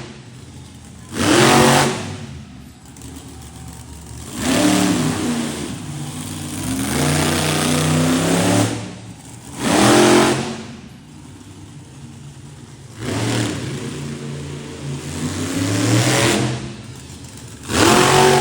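Monster truck engine revving hard in repeated surges, about seven in all, each rising in pitch and then dropping back to a lower run between them.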